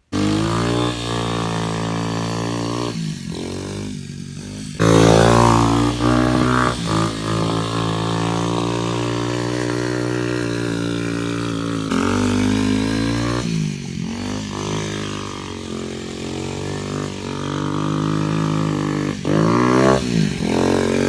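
Rebuilt 125cc four-stroke quad engine running and being revved, its pitch rising and falling repeatedly with several sharp dips in revs, getting louder about five seconds in. It runs with its magneto timing corrected, no longer backfiring out through the carburettor.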